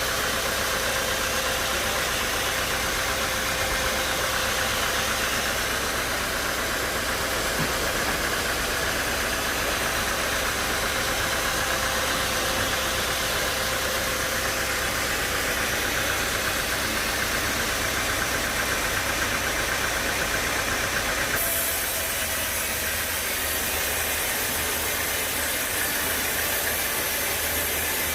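Sawmill machinery running steadily, a constant mechanical drone with no pauses; its tone shifts abruptly about three-quarters of the way through.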